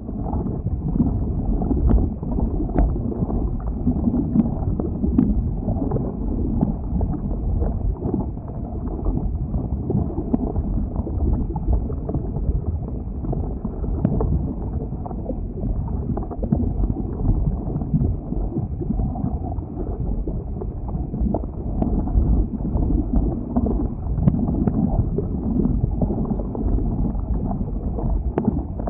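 Lava flow: a continuous low, uneven rumble with scattered sharp cracks and crackles.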